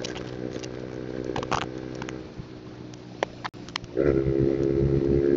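Motorcycle engine running at a steady note, dropping away a little past two seconds, then coming back louder about four seconds in with a rising note as the bike accelerates.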